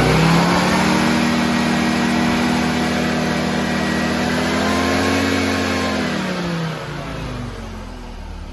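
Mazda RX-7 FC's turbocharged 13B rotary engine running just after being started from flooded: the note falls from a rev and settles at a steady idle. It lifts slightly about five seconds in, then sinks and dies away about seven seconds in.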